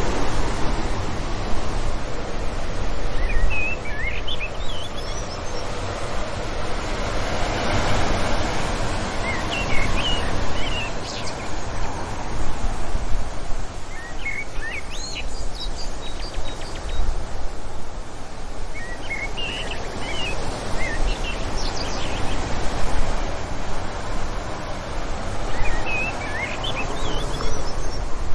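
Wind blowing steadily, swelling in gusts and easing off, with small birds chirping faintly in short bursts every few seconds.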